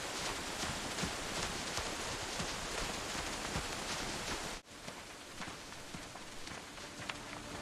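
Steady rain falling, with scattered individual drops ticking through the hiss. About four and a half seconds in it cuts off abruptly and resumes as quieter rain.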